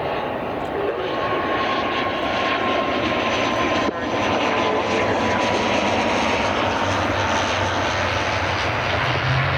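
Airliner's engines running loud as an aircraft passes, getting louder over the first few seconds and then holding, with a thin whine that slowly falls in pitch.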